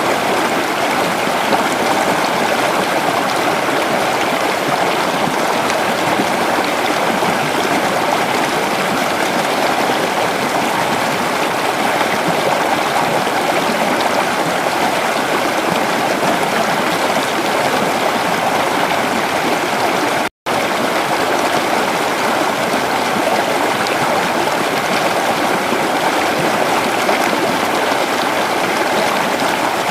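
Creek water flowing over rocks in a steady, even rush, with a split-second dropout to silence about twenty seconds in.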